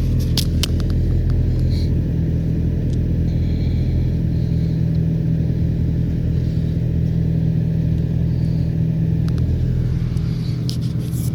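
BMW E87 116i's four-cylinder petrol engine idling steadily just after a cold start in −36 °C frost. A few sharp clicks sound near the start and again near the end.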